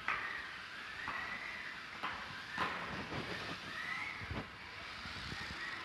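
Small electric motor of a 1:32 Kyosho Mini-Z RC truck whining, its pitch rising and falling as the throttle changes. Several sharp clicks and knocks are mixed in, the loudest about two and a half seconds in.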